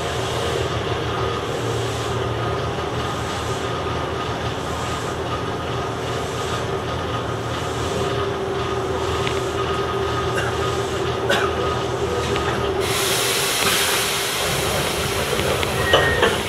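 Chiba New Town Railway 9000 series electric train running, with steady running noise and a held motor tone. A few clicks come from the wheels over rail joints. A hiss starts suddenly near the end.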